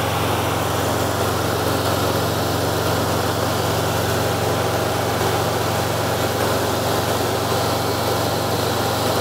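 Mexican VW Beetle's air-cooled, fuel-injected flat-four engine running steadily with an even, unchanging note.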